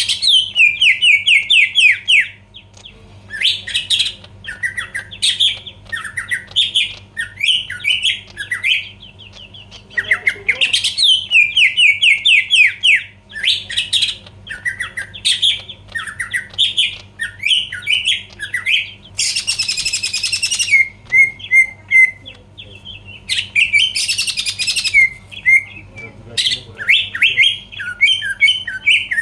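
Green leafbird (cucak ijo) singing loudly in rapid, chattering phrases, with two harsh rasping notes about 20 and 24 seconds in.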